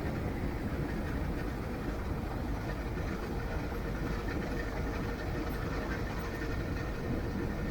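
Steady low rumble of a moving vehicle, with a faint steady hum running through it.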